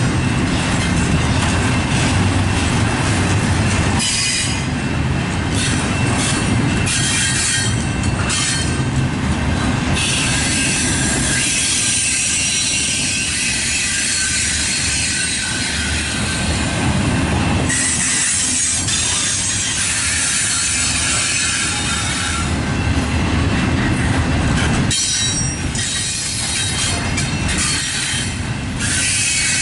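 Double-stack intermodal container train's loaded well cars rolling past close by: a steady rumble of steel wheels on the rails, with high-pitched wheel squeal that comes and goes.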